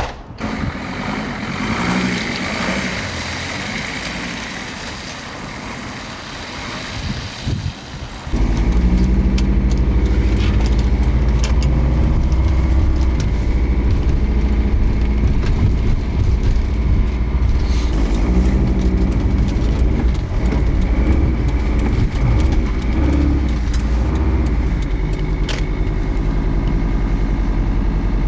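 Car engine and road noise as a steady low drone, which jumps to much louder about eight seconds in.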